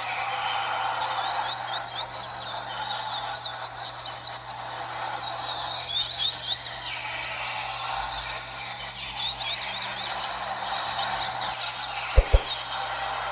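Many double-collared seedeaters (coleiros) singing at once in a tournament ring, their quick chirping phrases overlapping in a dense chorus. Two short low thumps sound about a second before the end.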